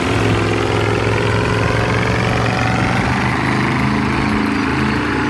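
Diesel engine of a MAN KAT heavy off-road truck running hard under load, its pitch sagging and then climbing again about halfway through.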